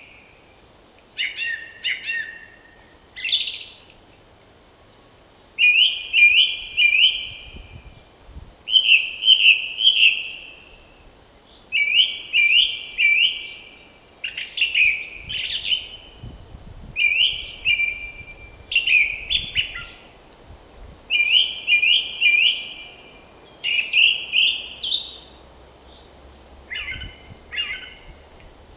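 A songbird singing in spring, repeating a short phrase of three or four quick falling notes every two to three seconds, with fainter, higher chirps from other birds between phrases.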